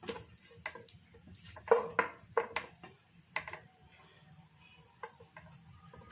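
A spatula clinking and scraping against a cooking pan while a vegetable, egg and chicken stir-fry is mixed, in a run of irregular knocks, the loudest a little under two seconds in.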